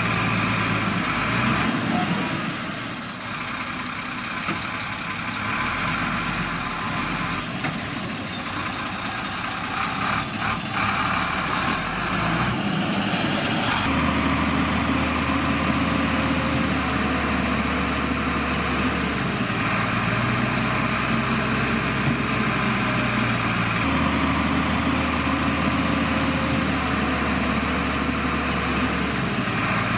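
Heavy diesel engines of earthmoving machinery, bulldozers and dump trucks, running steadily, with the engine note changing about halfway through.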